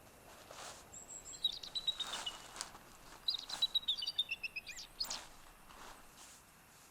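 A small songbird singing two short phrases of quick, high notes, each falling in pitch, about two seconds apart, over a few soft, slow footsteps.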